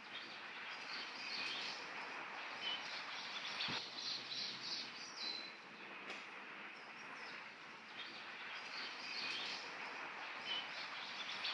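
Small birds chirping and calling over a steady hiss of forest ambience, with one soft knock about four seconds in.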